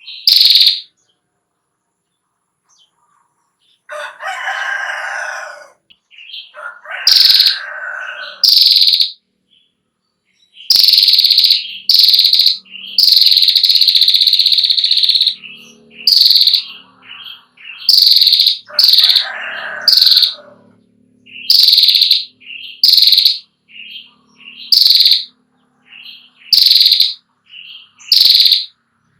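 Female prinia (prenjak klawu) giving its loud, high, chattering 'ngetir' call over and over, each burst lasting up to about a second and a half. A lower, longer call comes in three times, a few seconds in, about seven seconds in and near twenty seconds.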